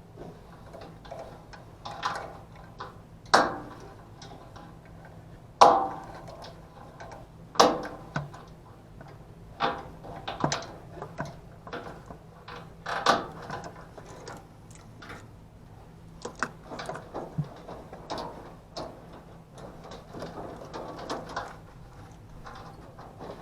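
Irregular knocks and clanks of hand work on metal parts of an HVAC unit, the sharpest about three, six, eight and thirteen seconds in, over a low steady hum.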